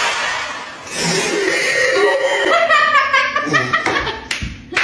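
People laughing hard, breathy at first and then in broken, pitched bursts. There is a sharp knock near the end.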